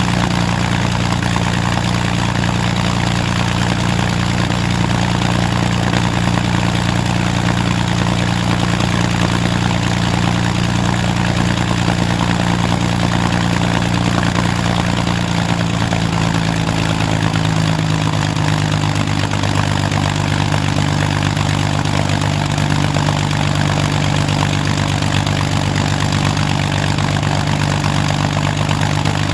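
Rolls-Royce Merlin V12 aero engine running steadily on a ground run, loud and even. Its note drops slightly about halfway through as the revs ease back a little.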